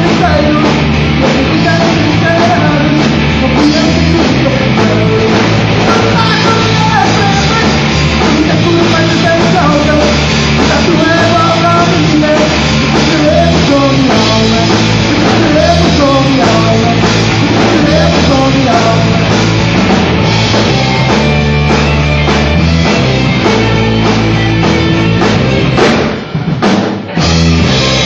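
A rock band playing, with drum kit, electric guitar and bass and a melody line, loud and steady, with a short break about two seconds before the end.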